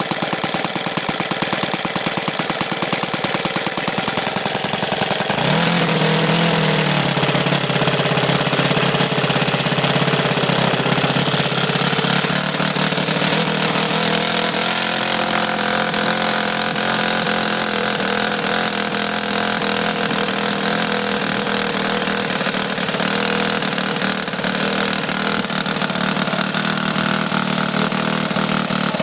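NGH 38cc four-stroke gasoline model engine running with an 18x10 propeller: it opens up to a higher, louder speed about five seconds in, then runs on steadily with another shift in pitch about halfway through.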